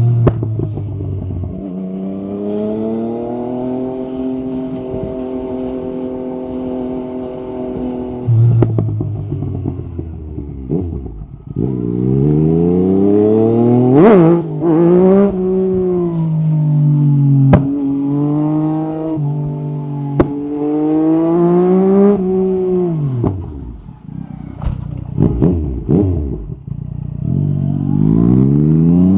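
Yamaha MT-09 SP's three-cylinder engine through an Akrapovic carbon exhaust, ridden hard. It cruises steadily at first, then pulls through several gears, rising in pitch and dropping at each upshift with a sharp crack at some shifts. About three quarters of the way through it falls away as the throttle closes, then climbs again near the end.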